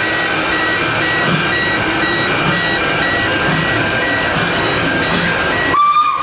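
Steady running noise of a railway train, with a faint high tone repeating evenly over it. Near the end the sound breaks off abruptly and a steady high tone begins.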